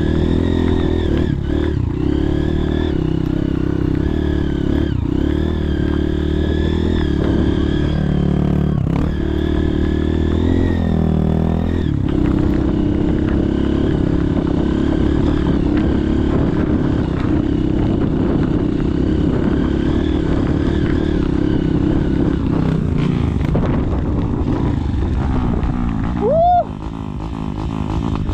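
Trail motorcycle engine running through mud, its note rising and falling with the throttle. Near the end there is a brief, loud rising squeal.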